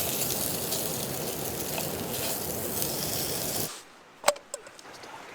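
Rushing whitewater of river rapids, a steady hiss that cuts off suddenly about three and a half seconds in. A single sharp knock follows, over quieter running water.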